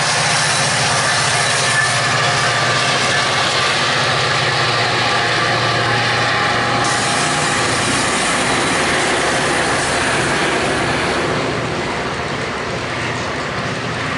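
A train passing: a steady rolling rumble of rail cars over the track, easing off slightly near the end.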